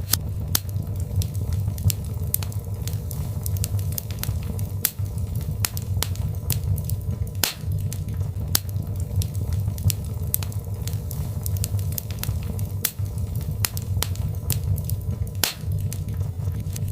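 Birchwood fire crackling in a fireplace: irregular sharp snaps and pops, several a second, over a steady low rumble of the burning logs, with a couple of louder pops along the way.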